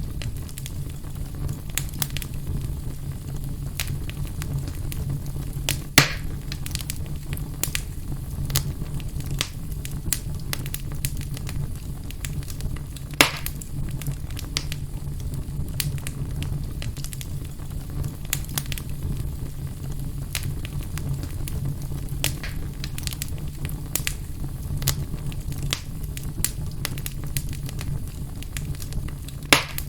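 Fire burning in a fireplace, crackling with many small snaps and three louder pops, over a steady low rumble.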